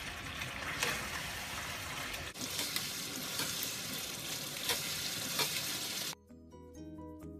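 Chicken curry sizzling in a nonstick pan over high heat while a spatula stirs and scrapes through it; this is the bhuna stage, cooking off the last of its water. About six seconds in, the sizzling cuts off abruptly and light instrumental music begins.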